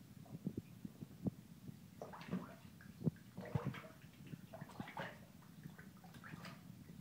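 A mallard duckling dabbling in shallow water in a bathtub: faint small taps and splashes throughout, with a few brief louder splashes in the middle.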